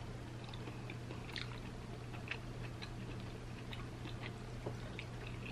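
Faint chewing and small wet mouth clicks of a person eating sauced seafood, over a low steady hum.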